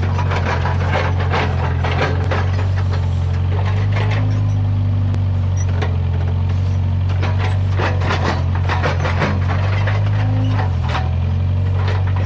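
Case 580G backhoe loader's diesel engine running steadily under load. Repeated cracks and snaps of wood and brush breaking as the machine clears growth. The engine note dips slightly near the end.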